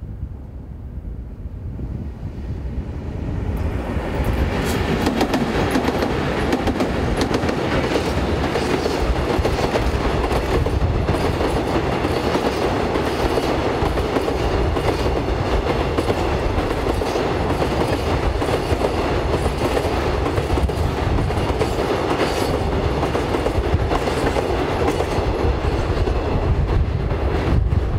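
Freight train hauled by two Korail Class 8500 electric locomotives crossing a steel girder railway bridge, building up over the first few seconds as it arrives. Then a heavy, steady run of open wagons, with a continual clickety-clack of wheels striking the rail joints on the bridge.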